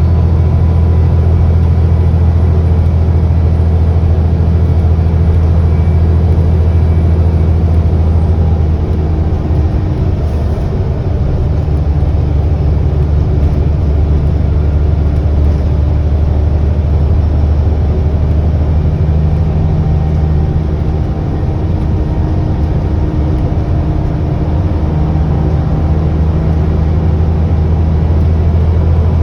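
ADL Enviro400 double-decker bus's diesel engine running under way, heard on board as a steady deep drone that eases off and picks up again a couple of times. A faint high turbo whine sits over it and fades out about eight seconds in.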